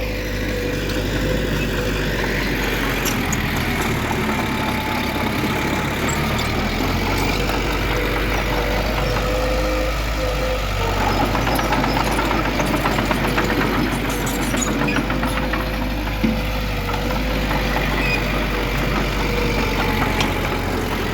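Diesel engine of heavy earthmoving machinery running steadily, with a steady whine held over the low drone.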